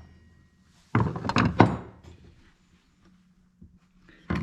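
A quick run of three or four sharp metal knocks about a second in, and another run near the end: hammer blows driving the reverse-threaded clutch of a Husqvarna 345 chainsaw loose.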